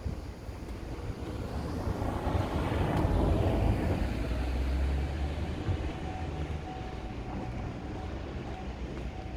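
A road vehicle passing by on the street: tyre and engine noise builds over a few seconds, peaks with a low rumble around the middle, then fades away.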